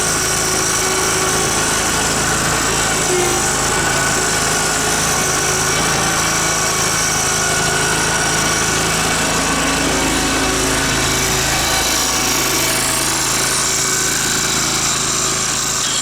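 Dixon zero-turn mower's Kohler engine running steadily at an even speed.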